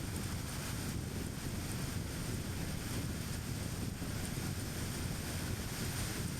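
A car driving at a steady speed: a constant rumble of tyre and road noise with wind, strongest in the low range and unbroken throughout.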